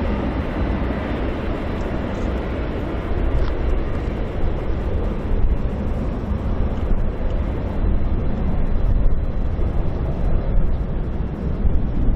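Boeing 767 airliner's jet engines, a loud steady rumble whose higher hiss dims over the first several seconds.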